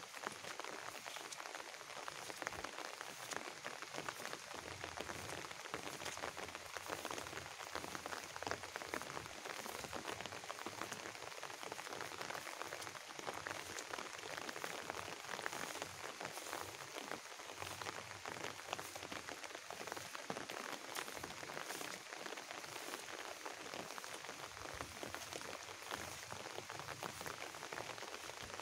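Steady rain falling: an even hiss made up of many small drop hits that holds unchanged throughout.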